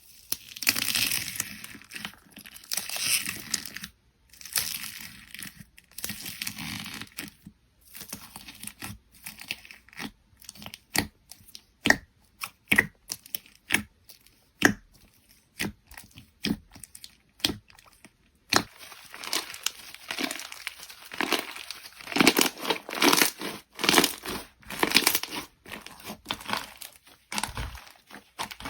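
Halloween particle slime being squished and stretched by hand, making sticky crackling and tearing sounds. Near the middle come many separate sharp clicks and pops, and the crackling grows dense again in the last third.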